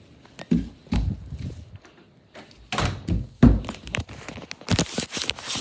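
A series of irregular dull thumps, about six, with a hissing rush near the end.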